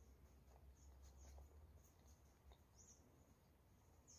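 Near silence: a steady low hum with a few faint, soft mouth clicks from chewing banana.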